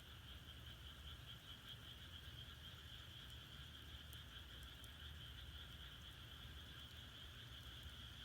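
Faint, steady chorus of frogs calling in the background, with a few faint crackles from the burning firewood.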